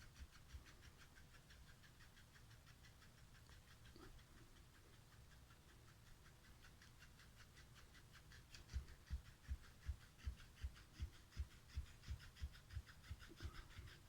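A cat making quiet rhythmic sounds: soft low thumps about three times a second over a faint, even, pulsing rasp. The thumps die away for a few seconds and return about halfway through.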